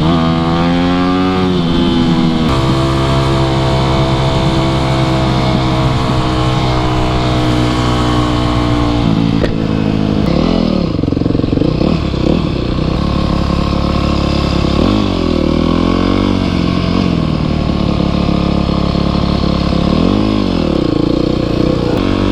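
Dirt bike engine under way, revving up through the gears at the start, then held at a steady pitch for several seconds before the revs drop and pick up again a few times in the second half as the rider eases off and gets back on the throttle.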